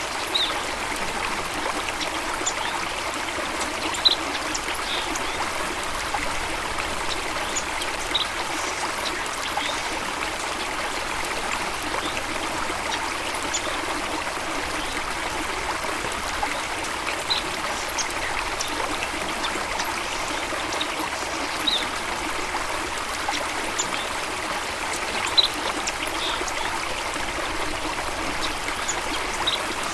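Running water flowing steadily, with birds giving short high chirps every second or two over it.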